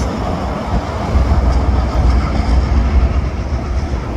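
Four diesel freight locomotives working as the train pulls out, a deep rumble that grows heavier about a second in.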